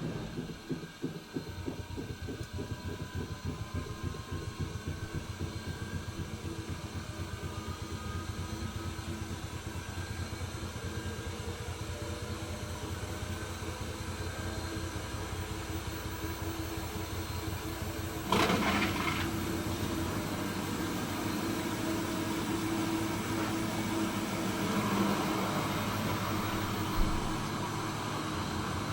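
Hoover H-Wash 300 Plus washing machine's drum speeding up into a spin, with a fast pulsing at first and a motor whine rising in pitch over the first several seconds, then running steadily. About 18 seconds in a sudden rush of noise sets in and the machine runs louder after it.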